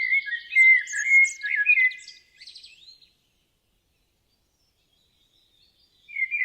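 A songbird singing: a quick run of varied whistled and warbled notes for about two seconds, trailing off by three seconds, then another burst of song starting near the end.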